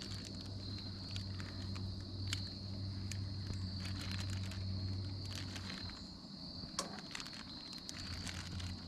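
Insects, such as crickets, chirring steadily outdoors. Scattered light clicks and knocks run through it, and a low hum drops out about six seconds in and comes back near the end.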